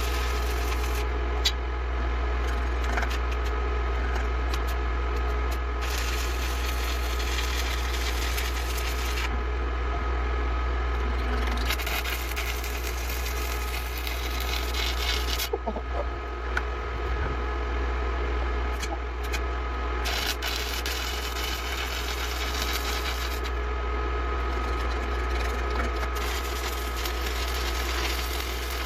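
Stick (shielded metal arc) welding played back several times faster than real time: the arc's crackling hiss runs in stretches of a few seconds, breaking off and starting again, over a steady low hum.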